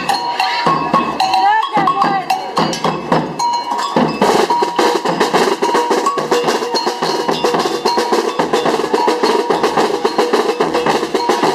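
Metal bells ringing and clanking in rapid, overlapping strokes, getting much busier about four seconds in.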